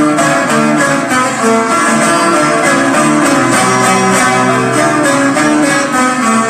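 A group of bağlamas, Turkish long-necked lutes, playing a Turkish folk tune together without singing: quick, densely repeated plucked notes at a steady loud level.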